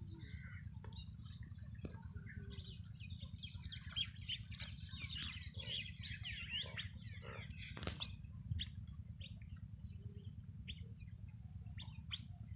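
Small birds chirping and twittering, a busy cluster of short high calls in the middle, over a steady low rumble, with one sharp click about eight seconds in.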